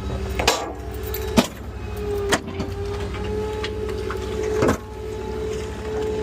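Small rear-loader garbage truck running, with a steady whine that sets in about two seconds in. Three sharp knocks come from the bin and trash being handled as a wet litter bin is emptied into the hopper.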